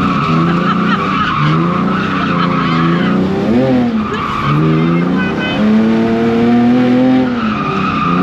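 BMW E46 drift car's engine revving up and down with the throttle as the car slides, its tyres squealing in long spells between the engine changes.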